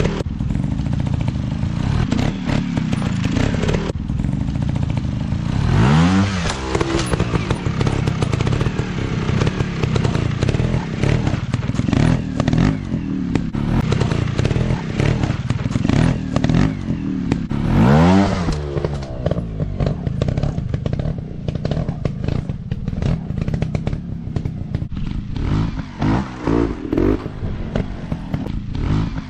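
Dirt bike engine running, revved sharply up and back down twice, about six seconds in and again about eighteen seconds in, with clattering and crackling throughout.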